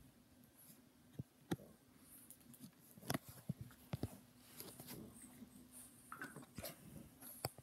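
Dog biting and scuffling at a fabric cushion: faint, scattered taps, scuffs and rustles at irregular intervals, over a low steady hum.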